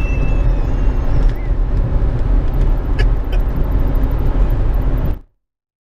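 Steady road and engine rumble of a vehicle travelling at highway speed, which cuts off abruptly to dead silence about five seconds in, where the audio has been muted.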